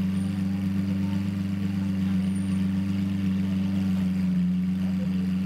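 Lamborghini Aventador LP700-4 Roadster's 6.5-litre V12 idling steadily.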